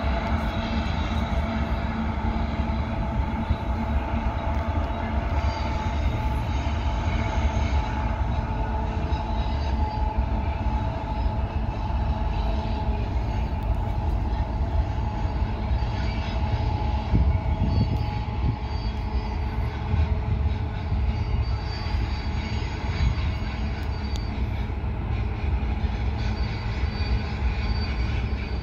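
Freight train rolling past: a steady, heavy rumble of wheels on rail, with faint high wheel squeal coming and going.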